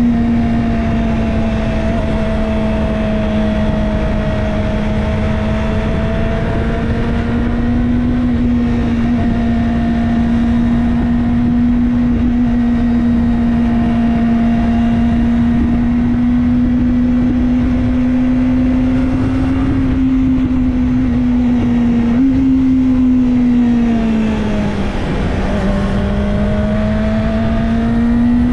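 Kawasaki Ninja ZX-25R's 250 cc inline-four engine running at steady cruising revs under a rush of noise. About three-quarters of the way through, the engine note falls briefly as the bike eases off, then rises again as it picks up speed.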